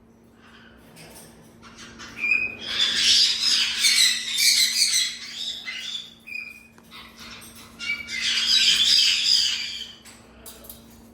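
Parrot calling: two long, harsh, loud screeches, one a few seconds in and one near the end, separated by short whistled notes.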